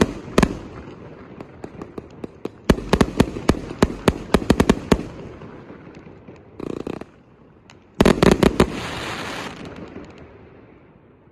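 A 1-inch, 198-shot firework cake firing: irregular volleys of sharp bangs in quick clusters. A dense cluster of bangs about eight seconds in is followed by a hissing tail, and then the shots die away.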